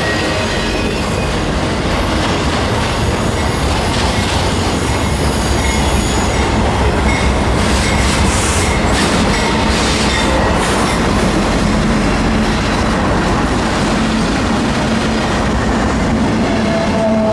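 Freight train rolling past close by: a steady loud rumble of wheels on rail, with a faint high wheel squeal and a run of clicks over the rail joints about halfway through.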